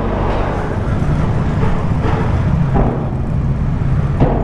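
Motorcycle engine running steadily on the move, under a constant rush of wind and road noise.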